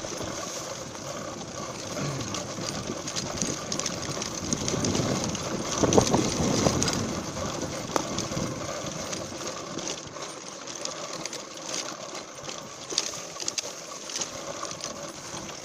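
Trail motorcycle's single-cylinder four-stroke engine running under way, a fast, rattly stream of firing pulses. It gets briefly louder about six seconds in.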